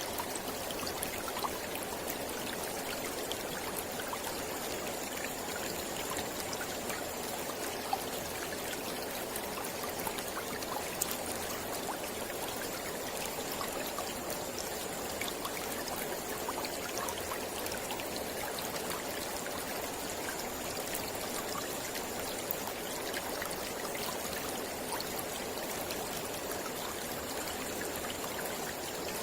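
Mountain river flowing over rocks: a steady rushing with small splashes and trickles throughout.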